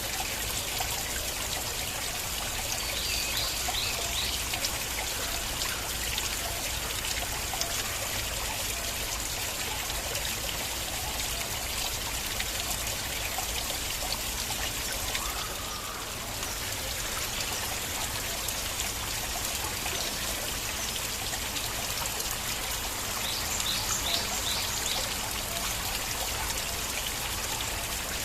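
Flowing stream water trickling and splashing steadily, with short high chirps twice.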